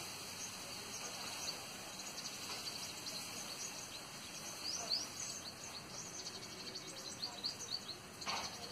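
Outdoor ambience of small birds chirping: many short, high chirps rising in pitch, thickest about five seconds in, over a steady hiss. A brief rustling noise comes near the end.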